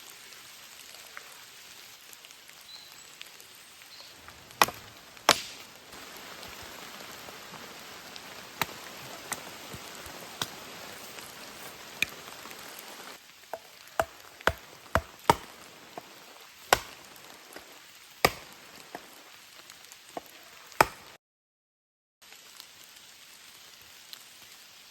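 Steady rain with irregular sharp knocks scattered through it, several in quick succession around the middle. The sound cuts out completely for about a second near the end.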